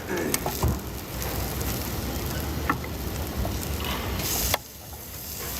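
Food sizzling in hot oil or on a griddle, with scattered clicks of utensils. A louder hiss swells about four seconds in, then the sound drops off suddenly.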